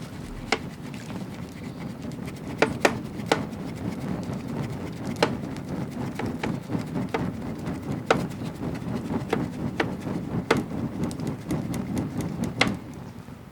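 Wood fire burning in the open, with sharp irregular crackles and pops over a steady low rush of flame.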